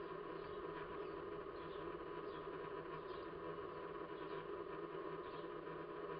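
Faint, short high chirps from small birds, scattered irregularly, over a steady hum.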